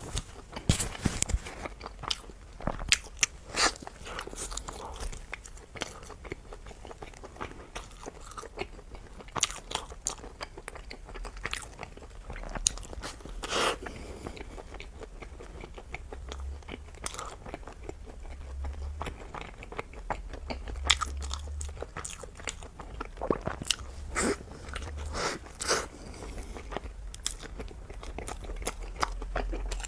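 Close-miked eating: irregular crunchy bites and chewing, with wet clicks and smacks scattered unevenly.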